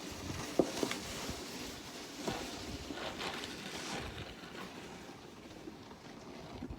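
Wind blowing on the microphone in a snowstorm, with a few short knocks or scrapes in the first half.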